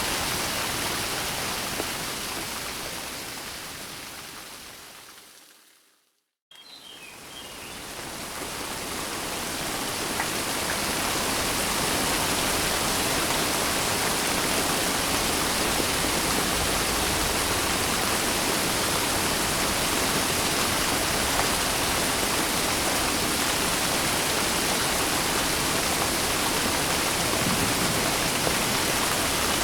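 Steady rain, an even hiss, that fades away over the first six seconds to a moment of silence, then comes back suddenly and swells to full again by about twelve seconds in.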